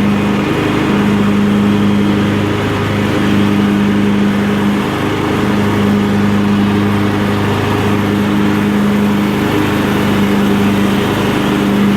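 Craftsman LT1000 lawn tractor running at mowing speed while it chops leaves. The engine drones steadily, and its main tone wavers and briefly drops out every few seconds.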